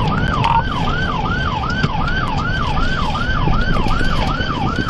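Police car siren on a fast yelp, sweeping up and down about two and a half times a second, over steady road and engine noise during a high-speed pursuit.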